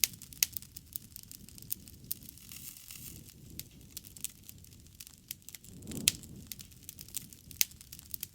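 Wood fire crackling, with sharp pops scattered irregularly over a low rushing noise from the flames that swells briefly about six seconds in.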